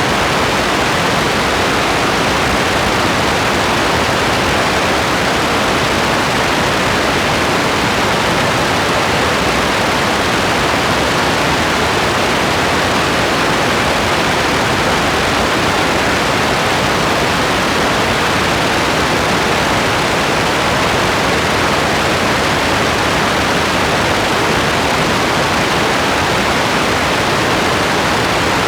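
Steady rain making an even, unbroken hiss, with no separate drops, thunder or change in level.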